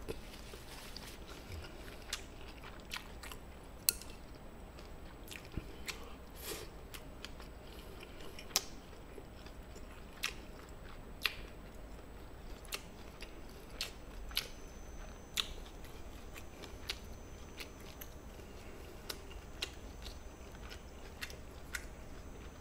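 Quiet chewing of gochujang-marinated chicken and rice: irregular soft mouth clicks and smacks, several a second at times, close to the microphone.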